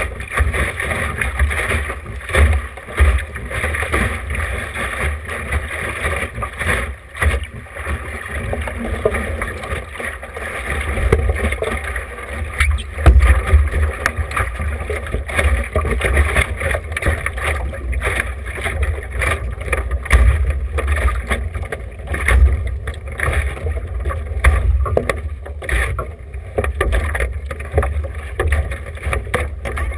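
Wind buffeting the camera microphone over the rush and slap of water along a small sailboat's hull as it sails.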